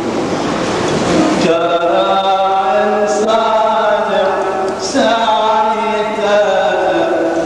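Coptic liturgical chant by a male voice, drawn out in long held, melismatic notes. A hissing wash of noise sits under the first second and a half.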